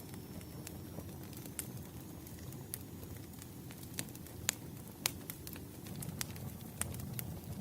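Wood fire crackling, with irregular sharp pops several times a second and two louder snaps about halfway through, over a low steady rumble.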